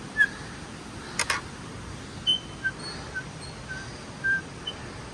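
Forest ambience with a steady faint hiss and a scatter of short, high bird chirps. Two sharp clicks come a little over a second in.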